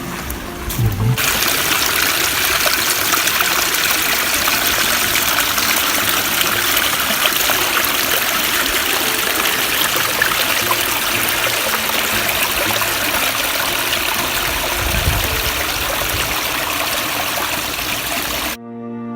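River water flowing, a steady even rush. It cuts off suddenly near the end, where music starts.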